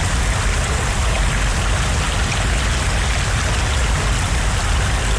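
Steady, loud rush of moving water, an even roar with no breaks.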